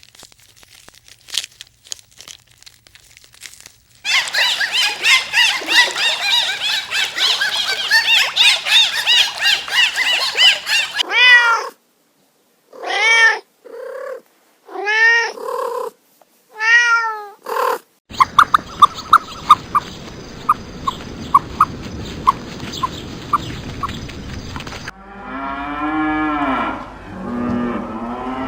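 A run of animal sound clips: several seconds of dense, high chirping and squeaking, then four separate meows from a domestic cat, each rising and falling in pitch. After that comes a steady hiss with a row of regular ticks, and lower drawn-out calls near the end.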